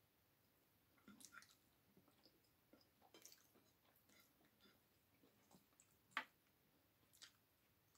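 Faint chewing and small wet mouth sounds of a person eating chicken wings by hand, with scattered quiet clicks and one sharper click a little after six seconds.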